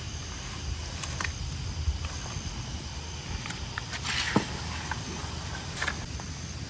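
Scattered rustles, cracks and clicks of dry sticks, bark and leaves being pulled by hand from a clogged ditch culvert, over a low steady rumble, with one sharper crack about four seconds in.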